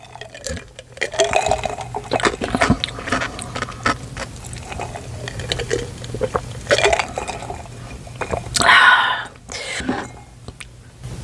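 Icy sparkling water fizzing and crackling while a person drinks it, with sips and swallows and one louder breathy sound about nine seconds in.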